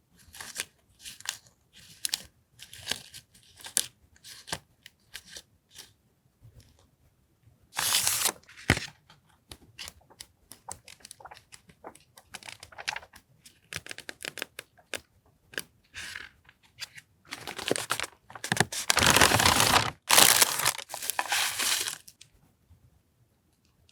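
Paper stationery and its packaging being handled and torn open: a run of short crinkling rustles, then a louder tear about eight seconds in and longer tearing from about seventeen to twenty-two seconds in.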